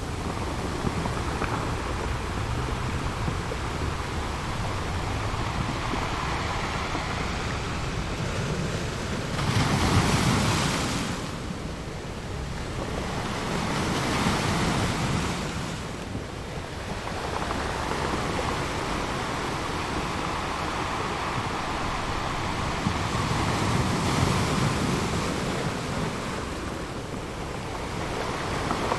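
Ocean waves washing in against the shore, a steady rushing with several slow swells as waves break, the biggest about a third of the way in.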